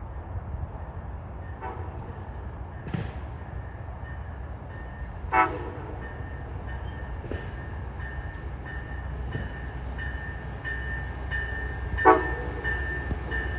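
Amtrak passenger train approaching the station with a low steady rumble. From about halfway a high ringing tone pulses on and off, and near the end lower horn tones join in. A few short, sharp calls stand out above it.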